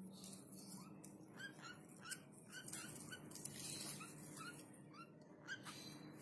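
Baby lovebird peeping: a run of short, faint rising chirps, about three a second, starting about a second in.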